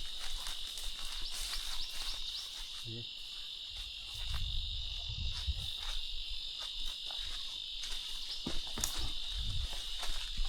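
Steady, high-pitched drone of insects chirring without a break, with a brief low rumble about four seconds in.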